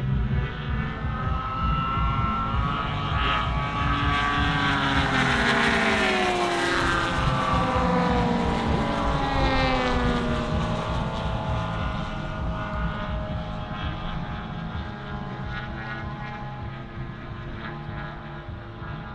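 Radio-controlled scale WW2 fighter model's engine and propeller flying past, growing louder, dropping in pitch as it passes about six seconds in, then fading away.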